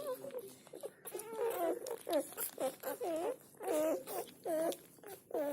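Black Labrador retriever puppies whining and yelping in a string of short, high, wavering calls, about two a second.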